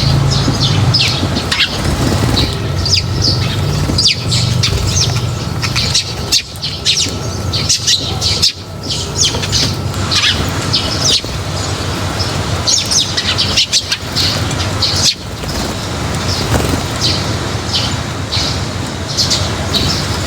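A flock of small birds chirping busily at a feeding spot, many short high calls overlapping throughout, over a low steady rumble.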